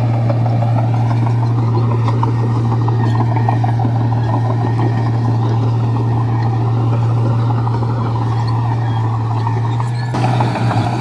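Komatsu bulldozer's diesel engine running steadily under load, a loud, constant low drone with mechanical rattle over it, briefly dipping and changing about ten seconds in.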